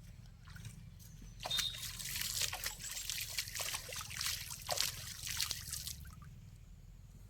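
Water splashing and trickling in an irregular run of small splashes and drips, which picks up about a second and a half in and dies away near the end.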